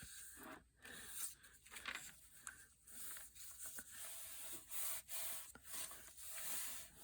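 A sheet of old book-page paper being handled and folded: faint rustling and rubbing with scattered soft crinkles.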